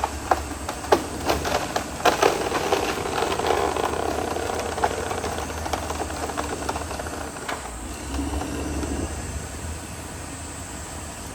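Caterpillar D6R XL bulldozer working: its diesel engine runs steadily under a low hum while the tracks and blade clank and rattle, thickest in the first half. The engine swells briefly about eight seconds in.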